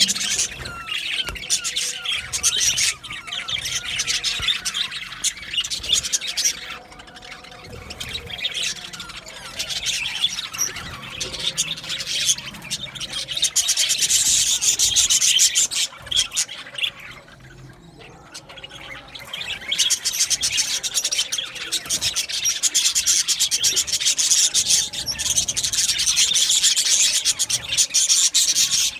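A colony of budgerigars chattering and warbling together in a dense, continuous chorus. It thins out briefly a little past the middle, then builds back up.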